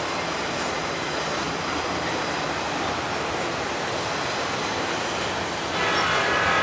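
Autorack freight cars rolling past with a steady rumble and clatter of steel wheels on the rails. Near the end it grows louder and a high-pitched wheel squeal sets in.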